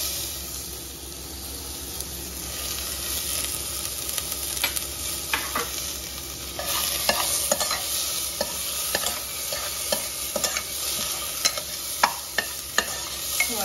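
Onions and tomatoes sizzling in mustard oil in an open pressure cooker, stirred with a metal spoon that scrapes and clicks against the pot. The sizzle grows louder about halfway through, and the spoon's knocks come more often.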